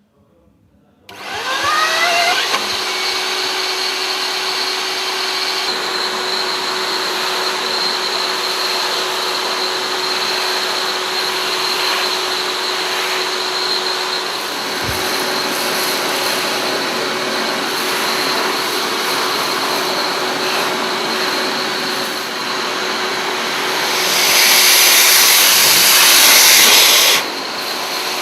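Ruwac SPS250 industrial chip-and-coolant vacuum switched on about a second in, its motor whining up to speed and then running steadily with a constant hum under the rush of air. Near the end the rushing grows louder for about three seconds, then drops back.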